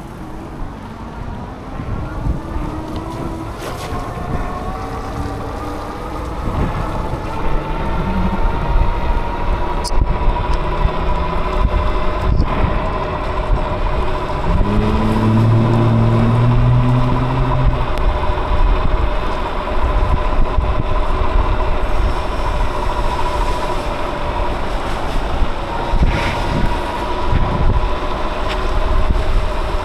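Electric bike motor whining as the bike pulls away, its pitch rising over the first several seconds and then holding steady at cruising speed, over a rush of wind on the microphone. A low drone joins briefly about halfway through.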